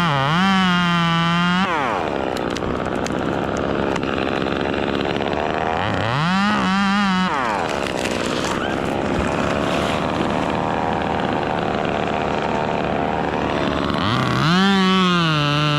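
Small two-stroke chainsaw engine running at high revs, briefly dropping and picking back up in pitch three times: about a second in, around six seconds in and near the end. Between these bursts the clear engine note gives way to a rougher, noisier sound.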